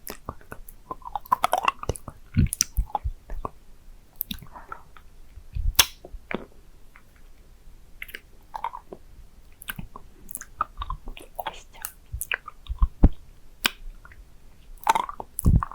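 Close-up mouth sounds of a hard candy being licked and sucked: irregular wet smacks and sharp clicks of the candy against the teeth, with a louder cluster near the end.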